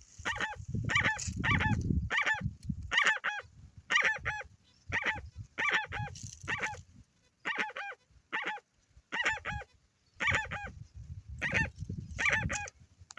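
Jacus (guans) calling: a long run of loud honking calls in quick clusters of two to four notes, repeating about every second. A low rumble sits under the calls for a few seconds near the start and again near the end.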